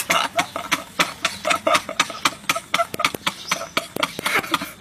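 Two men laughing hard: a fast string of short, breathy, gasping laughs, several a second.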